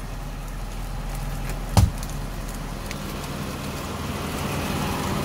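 Fire engine's engine running steadily at idle, with a single sharp knock a little under two seconds in.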